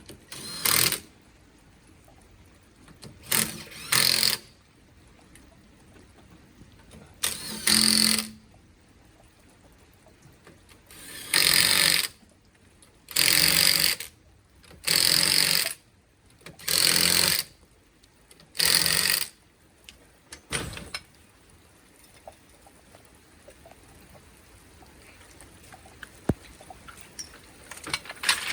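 Impact wrench running in short bursts on car wheel nuts, about nine bursts each lasting under a second, spaced a second or two apart, the last one near the middle.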